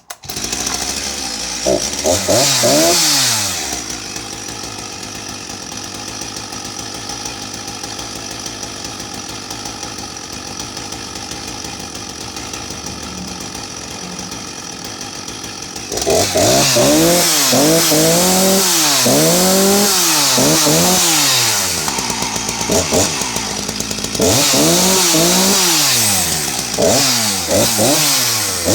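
Husqvarna 254 two-stroke chainsaw running: a couple of throttle blips at the start, then a steady idle, then a run of quick revs about halfway through, each snapping up to peak and falling straight back, a short idle, and more quick revving near the end.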